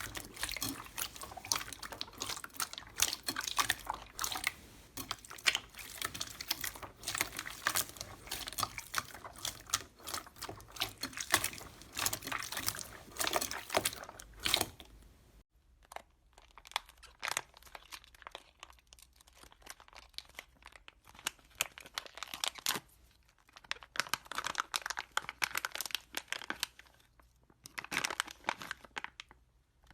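Slime being squeezed and stretched by hand, making dense sticky crackles and pops. It drops suddenly to a quieter, sparser clip about halfway through.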